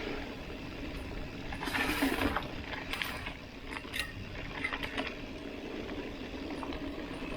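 Mountain bike riding on a dusty dirt road: a steady rush of tyre and wind noise, broken by scattered sharp clicks and rattles.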